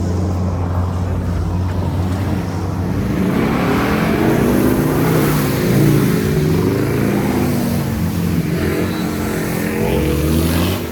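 Off-road vehicle engine running steadily at first, then revving up and down for several seconds from about three seconds in, and settling back to a steady run near the end.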